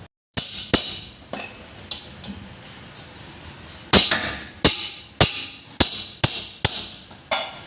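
Hammer striking metal: about a dozen sharp, ringing blows, a few scattered at first, then harder and more regular from about four seconds in.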